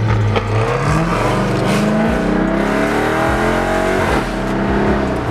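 V8 muscle car engine accelerating hard, its pitch climbing steadily, then dropping suddenly about four seconds in as it changes gear.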